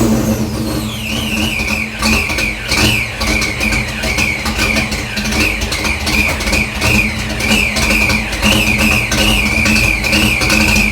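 Fox-body Mustang exhaust, through Black Widow 250 mufflers and three-inch piping, dropping from a rev in the first second and settling into an uneven, rhythmically pulsing idle. A wavering high whine runs over the idle.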